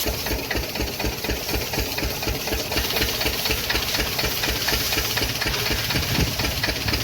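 A machine running steadily with a rapid, even knocking pulse, with a hiss of spray above it.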